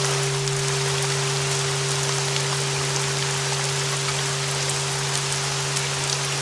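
Steady rain noise with a sustained low tone at about 396 Hz and a deeper hum beneath it: flat bells tuned to the 396 Hz solfeggio frequency, held without a new strike.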